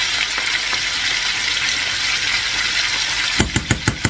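Chicken pieces and garlic frying in oil in a pan, a steady sizzle as the majado of pounded garlic, parsley and almond goes in. Near the end comes a quick run of about six sharp knocks.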